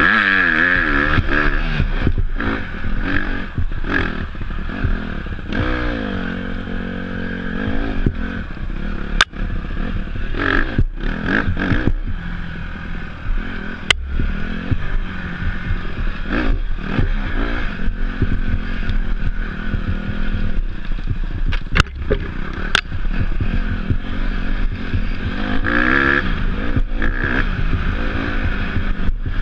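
Off-road motorcycle engine being ridden hard, revving up and falling back again and again. A clatter runs through it, with a few sharp knocks in the second half.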